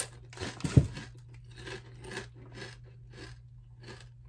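A person chewing a crunchy potato chip with the mouth closed: a sharper bite near the start, then steady crunching about twice a second that gradually grows softer.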